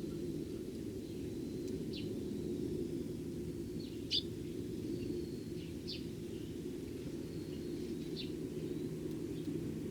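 Eurasian tree sparrows giving short, sharp chirps, about four spaced a couple of seconds apart, over a steady low background rumble.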